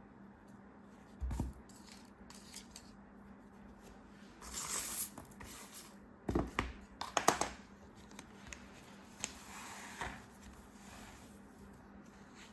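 Packaging being handled and opened: a soft thump, a crinkling rustle, then a quick cluster of sharp clicks and taps, and a softer rustle later.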